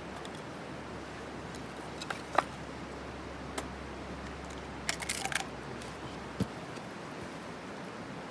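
Campfire crackling: a few sharp pops, with a quick run of them about five seconds in, over a steady hiss.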